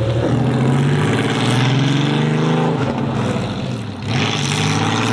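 Modified car engine accelerating hard: the engine note climbs in pitch, drops briefly about four seconds in at a gear change, then climbs again.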